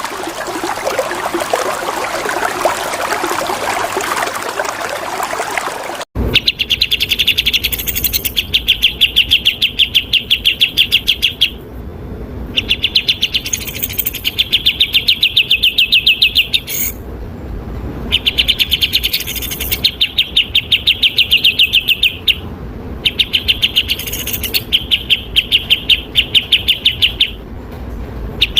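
Flowing water for about six seconds, cut off abruptly. Then bulbul song: very rapid, harsh trilled phrases lasting a few seconds each, repeated with short pauses.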